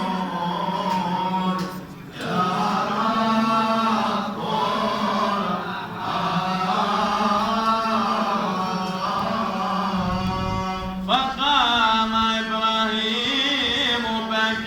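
Male voice chanting a long, drawn-out melismatic passage in Coptic liturgical style, with no clear words. The pitch bends and holds, and new phrases begin about two seconds in and again near eleven seconds.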